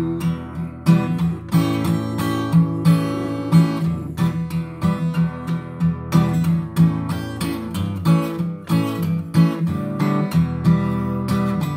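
Acoustic guitar strummed in a steady rhythm, playing an instrumental passage of a song between sung lines.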